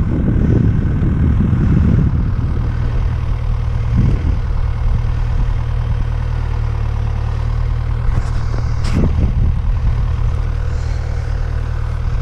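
An engine idling steadily at a low, even pitch, with a brief sharp sound about nine seconds in.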